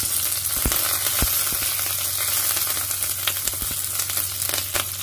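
Cumin seeds, green chillies, ginger and curry leaves sizzling steadily in hot oil in a non-stick frying pan as a spice tempering (tadka). They are stirred with a spatula, with a few light knocks against the pan.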